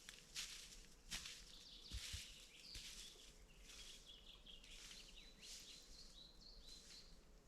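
Faint outdoor ambience: a small bird gives short, high calls, several in quick succession in the second half, among scattered soft rustles.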